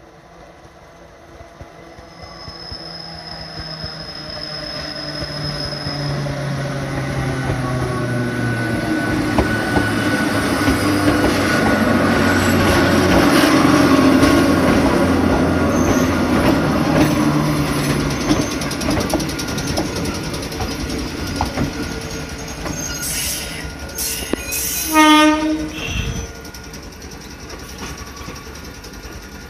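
Hakone Tozan Railway Moha 1 type electric cars rolling into a station on a curve, their running and wheel noise growing louder as they pass close by, with a thin high wheel squeal a few seconds in. About 25 s in, a waiting Allegra 3000 series train gives a short, loud horn blast as a warning.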